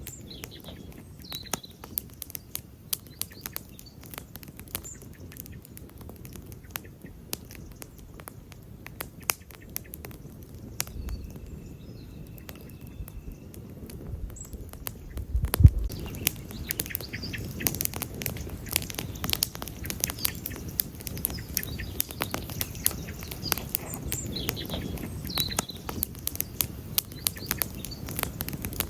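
Wood campfire crackling with many sharp pops over a low steady rush of the flames. One louder pop comes about halfway through, and the crackling grows denser after it.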